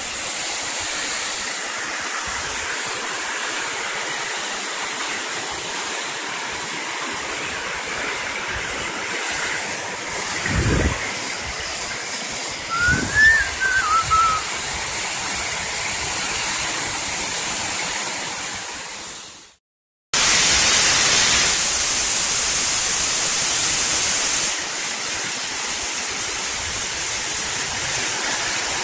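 Waterfall's steady rush of falling water. It drops out for a moment about two-thirds through and comes back louder, and a short chirp rises and falls near the middle.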